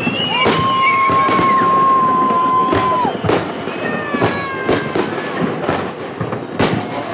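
Fireworks display: a string of sharp bangs from bursting shells, with a long steady whistle for the first three seconds and several shorter whistles, some sliding down in pitch.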